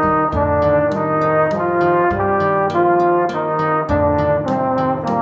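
Brass instrument playing a slow melody in held notes over a lower sustained accompaniment, with an even ticking beat of about four clicks a second.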